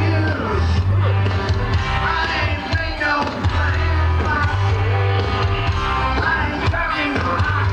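A young amateur rock band playing live, with a strong steady bass line under the other instruments.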